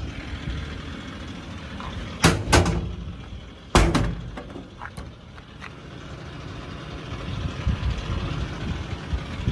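Ford 6.7-liter Power Stroke V8 diesel idling steadily, with three loud sharp metal clunks about two to four seconds in and a few lighter clicks after them.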